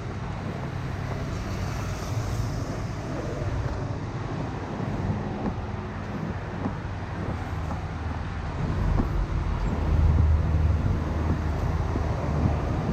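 Steady city road traffic: engines and tyre noise of passing vehicles, with a low engine rumble growing louder about ten seconds in.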